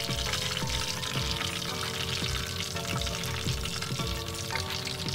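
Chicken frying in shallow oil in a pan: a steady crackling sizzle. Background music with a steady beat plays under it.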